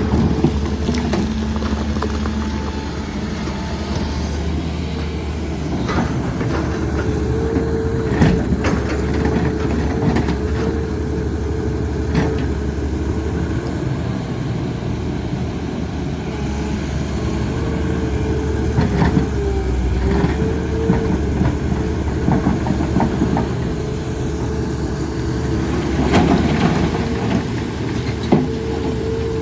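Excavator at work: its diesel engine runs steadily under a hydraulic whine that wavers at times, with scattered metallic clanks and knocks from the bucket and tracks.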